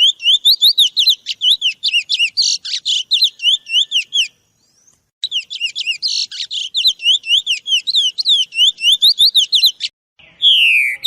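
A songbird singing a fast run of repeated sharp chirps, with two harsher, buzzy stretches, one about two seconds in and one about six seconds in. It breaks off for about a second near the middle, then resumes. Near the end a different call comes in: a long falling whistle.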